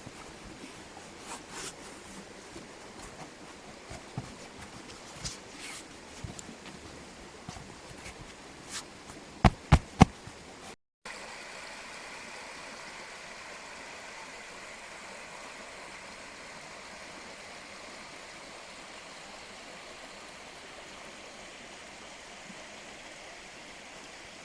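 Mountain stream running steadily. The first half has scattered clicks and rustles, with four loud sharp knocks about ten seconds in, before a cut to the unbroken sound of the water.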